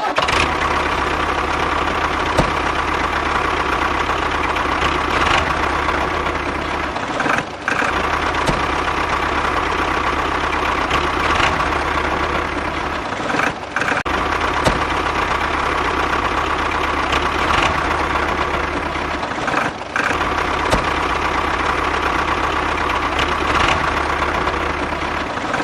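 Small electric motor running steadily with a whine over a low hum, breaking off briefly three times.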